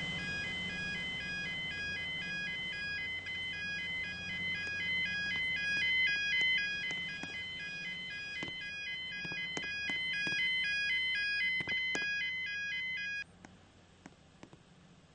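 Level crossing warning alarm: an electronic two-tone sound alternating rapidly between pitches, with a few sharp knocks in the second half. It cuts off abruptly about two seconds before the end, leaving only faint background.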